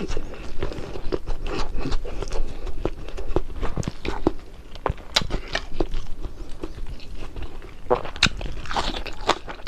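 Close-up eating sounds: crisp, irregular crunching and chewing of crispy fried fish.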